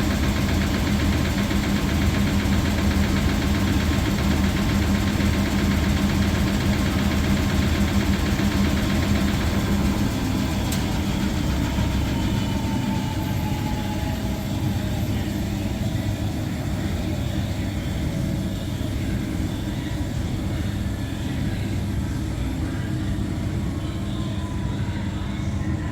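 Washing machine spinning in an extraction cycle, running steadily with a low hum. About halfway through the hum fades and a motor whine falls in pitch as the drum slows down.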